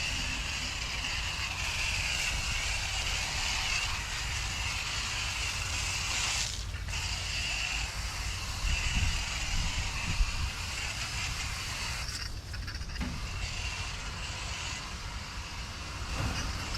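Water spraying from a hose onto an outdoor air-conditioner condenser coil, a steady hiss that breaks off briefly twice, over a low rumble.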